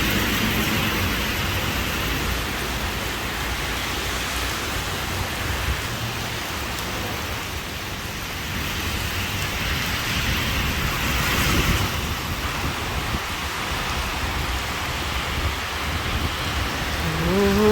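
Heavy rain falling steadily with a low rumble underneath. Just before the end, a pitched sound rises in and holds.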